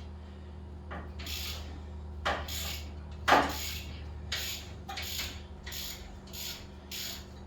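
Socket ratchet wrench clicking in a run of short back-strokes as the rear axle nut is spun off, the strokes coming faster and more evenly later on.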